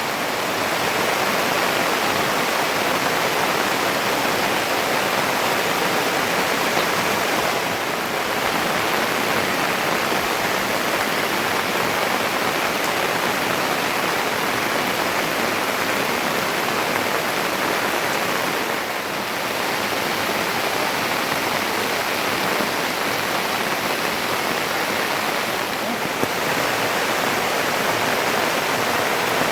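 Steady rushing of water, an even hiss that holds throughout with slight dips a few times.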